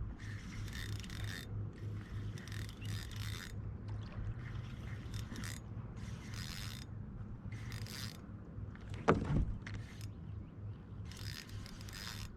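Intermittent scraping and mechanical handling noises from fishing gear and the kayak, coming in short irregular spells over a steady low hum, with one sharp thump about nine seconds in.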